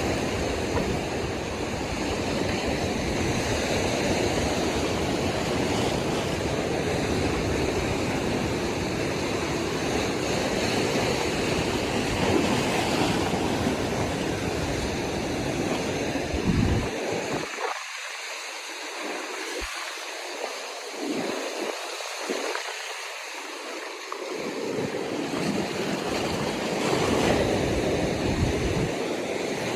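Ocean surf washing along the shore, a steady rushing noise, with wind buffeting the microphone that drops away for several seconds past the middle and then returns.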